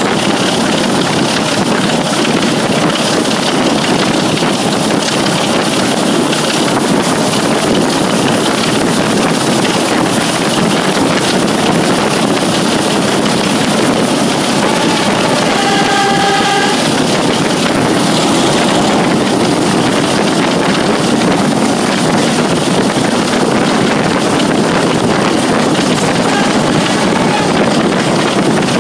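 Diesel-hauled heritage train running, heard from an open coach window: a steady, loud mix of locomotive engine, wheels on rail and wind buffeting the microphone. A brief pitched tone sounds about halfway through.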